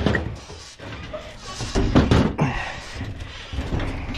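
Knocking and thudding: a sharp knock at the start and a louder cluster of thuds about two seconds in.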